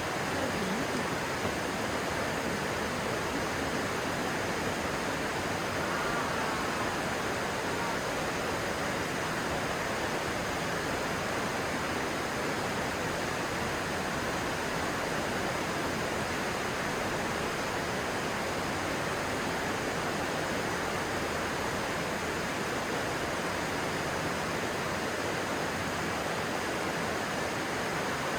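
Stream water rushing steadily, an even, unbroken rush of flowing water.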